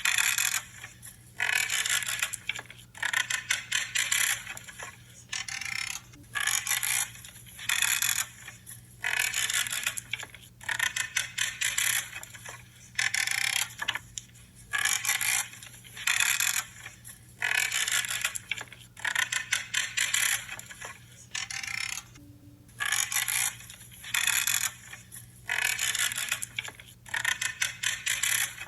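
Hand pruning shears cutting through branches, a creaking, crunching cut about every second to second and a half, with a brief pause about 22 seconds in.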